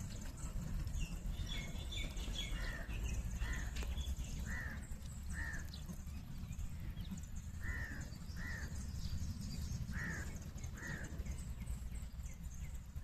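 A bird calling in pairs of short notes, a pair about every two to three seconds, with fainter high chirps of other birds and a steady low rumble underneath.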